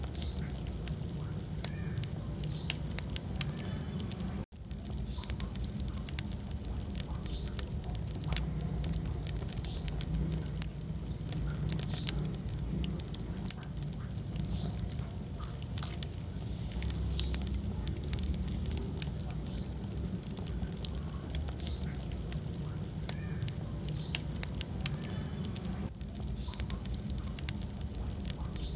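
Wood fire burning in a fireplace: a steady low rumble of flames under frequent crackles and pops, with a brief dropout about four seconds in.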